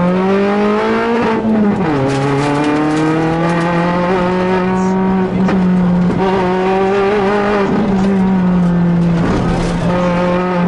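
Peugeot 206 rally car engine heard from inside the cabin, running hard at high revs. The revs climb, drop sharply about a second and a half in, then pick up again and hold fairly steady.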